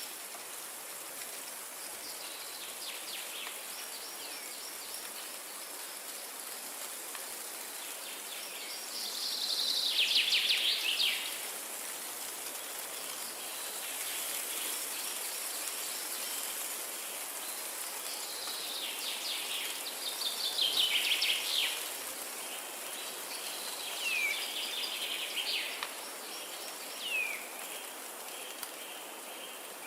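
Wind in forest trees, a steady rushing hiss, with songbirds over it. Bursts of rapid trilling come about ten and twenty seconds in, and short falling whistles come several times near the end.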